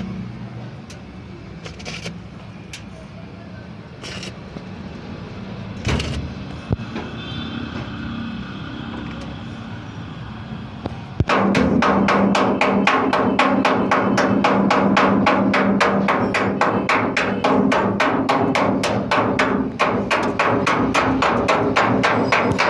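Scattered knocks, then about eleven seconds in a machine starts up: a steady hum with rapid, regular clicking or tapping that carries on.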